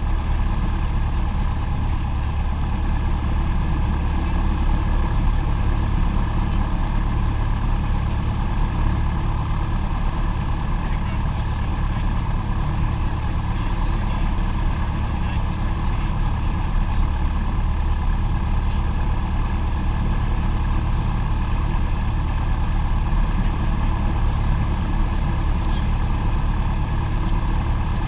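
Aircraft engines running at a steady drone: a low rumble with several steady tones over it, with no change in pitch or level.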